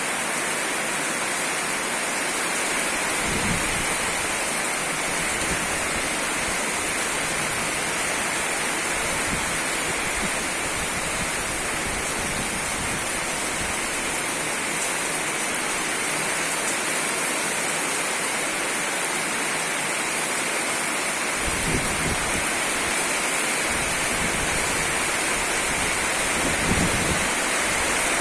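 Steady, heavy rain falling, an even hiss throughout, with a few brief low rumbles of wind gusting against the microphone.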